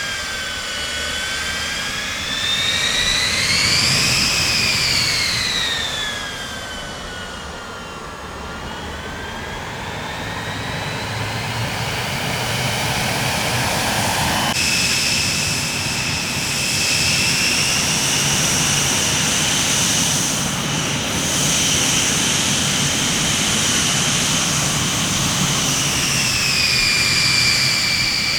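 Jet aircraft engines whining over a low rumble. The whine rises and falls in pitch in the first half. After a sudden change about halfway through, it holds a steady high pitch.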